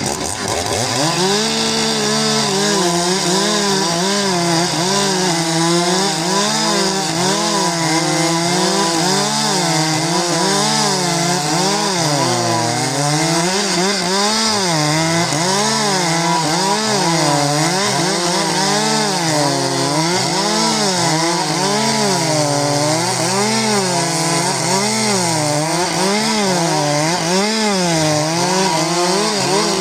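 Two-stroke chainsaws revving up to full throttle and cutting through logs, the engine pitch dipping and recovering every second or so as the chain bites into the wood.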